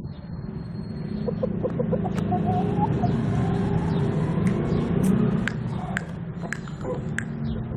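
Aseel rooster clucking a few short times, about one to three seconds in, over a steady low engine rumble.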